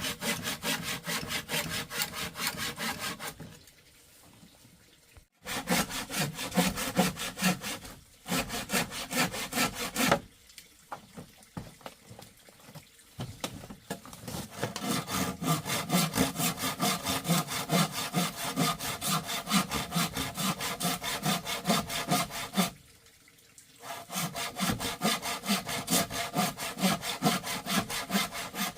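Hand saw cutting wood with steady back-and-forth strokes, in several bouts broken by short pauses.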